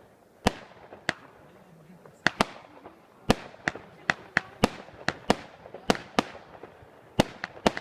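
Fireworks going off: a rapid string of sharp bangs at uneven intervals, roughly two a second.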